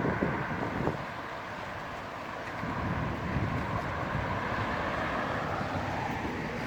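Stormy wind blowing in gusts and buffeting the microphone, strongest in the first second.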